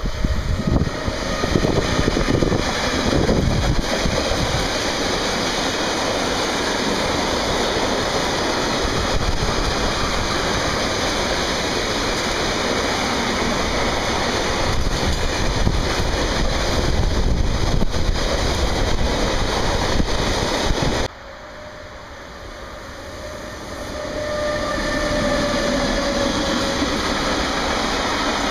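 A freight train passing close: a DB Schenker class 189 electric locomotive goes by first with a heavy low rumble, then a long line of freight wagons rolls past in a steady rumble of wheels on rails. About 21 seconds in the noise drops suddenly and then builds back up over a few seconds, with faint squealing tones near the end.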